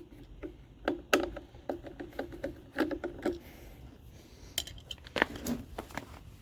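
Scattered metal clinks and taps as a nut driver works small bolts off a lawn mower engine's screen.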